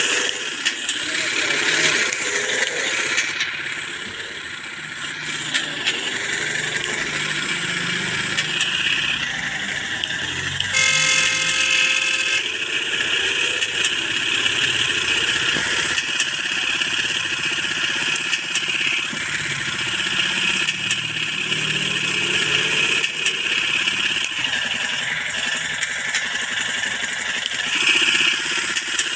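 Motorcycle engines running and revving, their pitch rising and falling over and over, with a steady horn-like tone about eleven seconds in.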